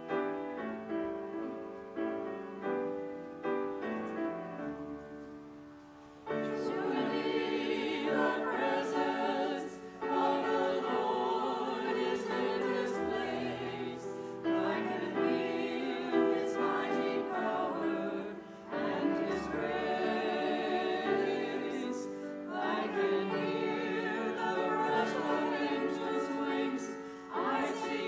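Piano playing a short introduction of separate, fading chords, then about six seconds in a choir comes in singing with the accompaniment.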